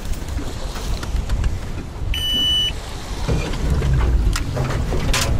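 Strong gusty wind buffeting the microphone, with waves slapping a small fishing boat. A little after two seconds in, a single electronic beep sounds for about half a second.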